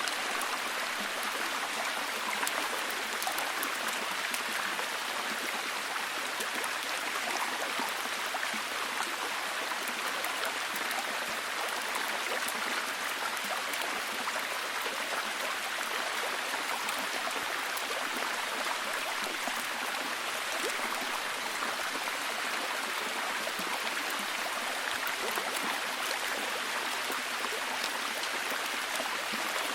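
Heavy, steady rain: a dense, even hiss of many drops with fine patters, unchanging in level.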